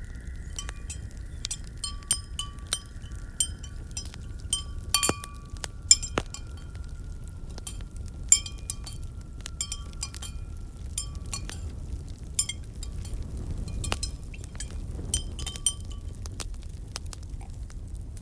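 Repeated light clinking of glass or china, a few clinks a second in irregular runs, each ringing at the same pitch, over the low rumble of a fireplace.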